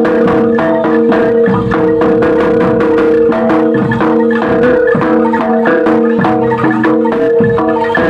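Gamelan music: bronze metallophones struck in a fast, steady stream of notes over sustained ringing tones.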